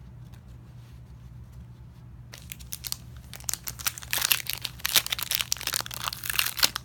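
Wrapper of a football trading-card pack crinkling and tearing as the pack is opened. The crackling sets in about two seconds in and grows busier and louder toward the end, over a low steady hum.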